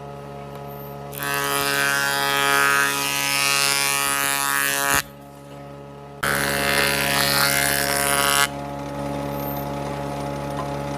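Electric woodworking power tool running with a steady motor hum, cutting into wood twice: once for about four seconds starting a second in, then again for about two seconds starting six seconds in.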